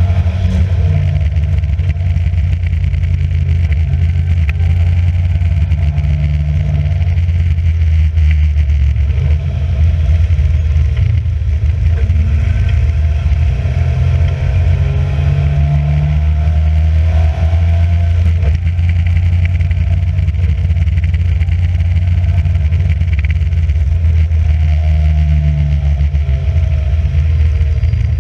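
Race car engine running hard and loud, its note rising and falling several times as it accelerates and changes gear.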